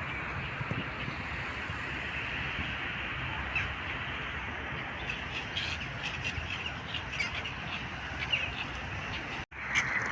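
A dense, steady chorus of many birds calling together, with short chirps standing out here and there. The sound cuts out for an instant about nine and a half seconds in.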